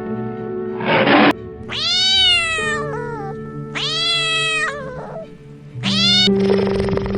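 A cat meowing three times, each call rising then falling in pitch, over background music with steady held notes. A short noisy burst comes about a second in.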